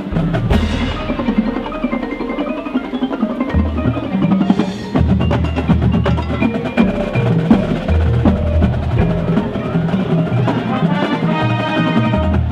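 High school marching band playing loudly, with drums and mallet percussion such as marimba and xylophone to the fore over low brass notes; the music starts abruptly and the bass swells in about four to five seconds in.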